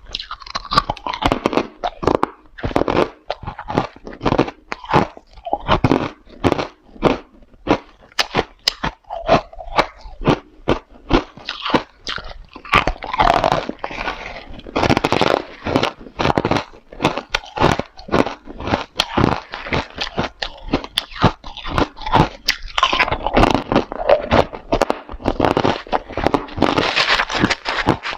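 Hard ice being bitten and chewed close to the microphone: rapid, loud, crisp cracks and crunches, one after another.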